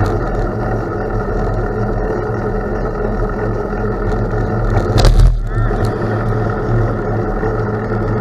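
Steady rushing noise of riding a gravel bike: wind on the microphone and tyres rolling over gravel, with a brief louder jolt about five seconds in.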